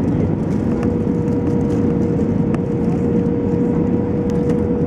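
Steady cabin roar of an Airbus A320-214's CFM56 jet engines and airflow in descent, with a steady droning tone running through it.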